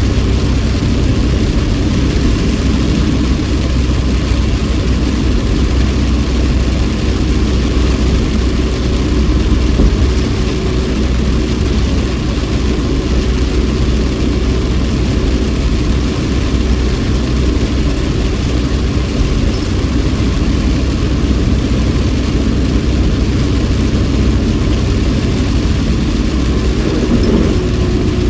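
Car driving, heard inside the cabin: steady engine and road noise with a constant low rumble.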